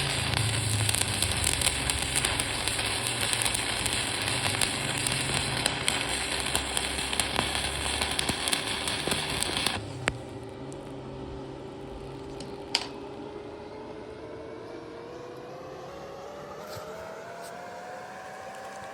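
Stick (shielded metal arc) welding arc crackling and sizzling steadily, which stops abruptly about halfway through. After it, a quieter hum remains, with a faint tone that slowly rises in pitch and a couple of single clicks.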